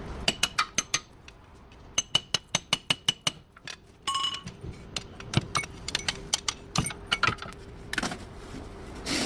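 Sharp metallic clinks and taps of hand tools on metal parts, with short ringing tones. Between about two and three and a half seconds in there is a quick run of about six evenly spaced clicks a second.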